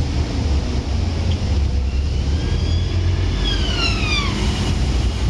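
Scania N230UD bus's five-cylinder diesel running with a steady low rumble. About two seconds in, a high whine rises slightly, then falls steeply and dies away just after four seconds.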